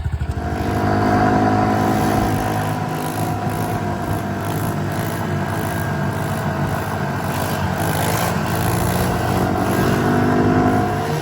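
110cc pit bike's small single-cylinder four-stroke engine picking up from a pulsing idle about half a second in, then running at steady revs under way, easing off near the end.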